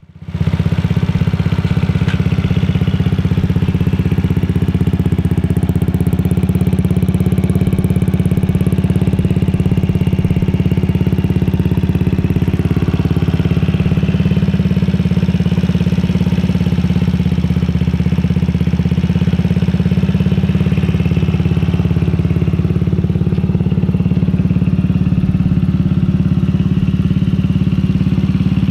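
Longjia LJ50QT-3L 50cc scooter engine running steadily through an aftermarket Lextek sports exhaust, a loud, even, low exhaust note that starts within the first half second.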